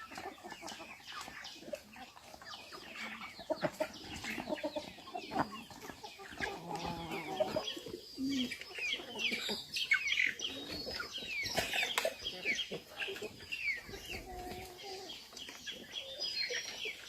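Chickens clucking, with many short, high chirping calls throughout.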